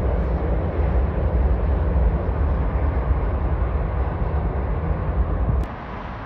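Jet airliner engine noise, a loud low rumble, that stops abruptly with a click about five and a half seconds in, leaving a quieter outdoor background.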